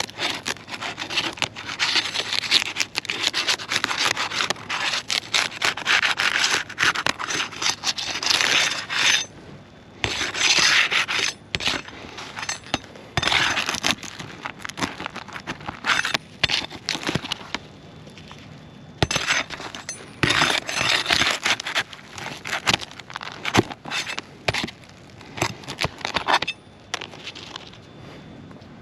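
Asphalt roof shingles being pried and scraped loose to get their nails out, in repeated scraping strokes with sharp clicks and knocks and short pauses between.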